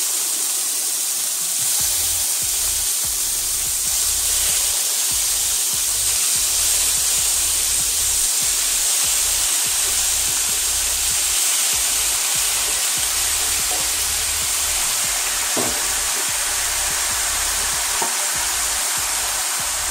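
Thin-sliced raw chicken breast sizzling steadily as it fries in a little hot oil with garlic in a skillet over medium-high heat.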